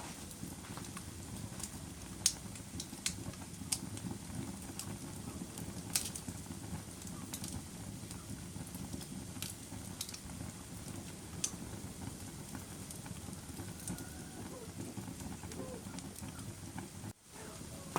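Wood fire burning in a fireplace: a steady low rumble of flames with irregular sharp crackles and pops. The sound drops out for a split second near the end.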